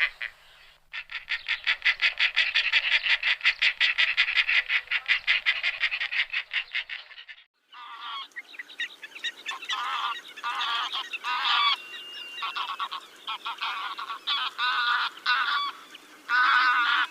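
A fast, even run of short calls, about eight a second, for about six seconds, then after a cut, waterfowl honking in a flock: separate nasal honks with a thin whistle heard twice.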